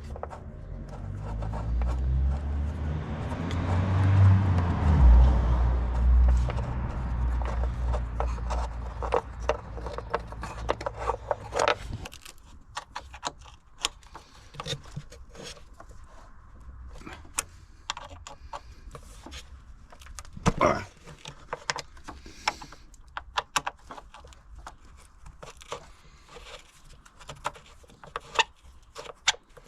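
Hand tools working on engine cover bolts: scattered metal clicks and clinks of bits, sockets and bolts. A low rumble fills the first part and stops abruptly about twelve seconds in.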